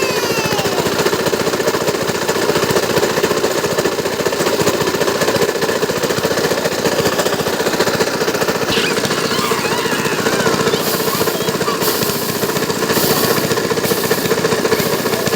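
Small diesel engine of a paddy-farming machine running steadily, with a rapid, even knocking. Near the end a high hiss pulses on and off about once a second.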